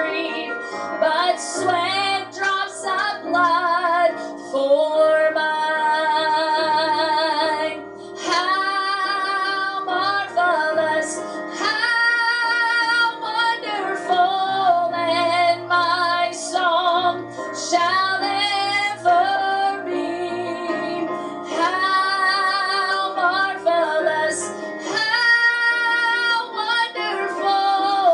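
Background music: a woman singing a slow gospel hymn with vibrato over instrumental accompaniment.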